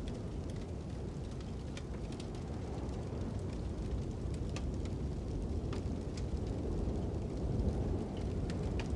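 Fire crackling with scattered sharp pops over a steady low rumble of wind.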